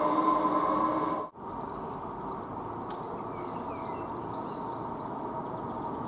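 A steady machine-like hum cuts off abruptly about a second in, giving way to quiet outdoor background noise with a few faint, short bird chirps.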